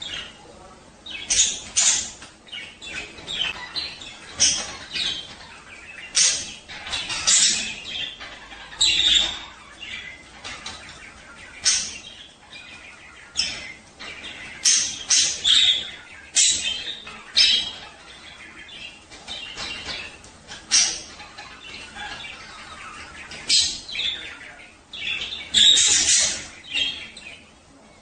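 Budgerigars chattering and warbling in quick, irregular chirps: the breeding-time warble of male budgies.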